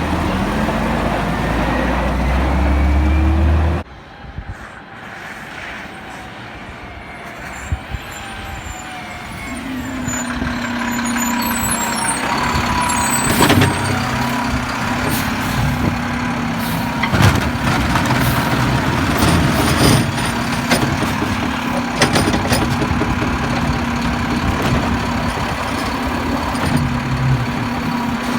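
Garbage truck engine running, with scattered knocks and clanks. The loud engine sound cuts off abruptly about four seconds in, and a steady hum with louder knocks builds back up from about ten seconds in.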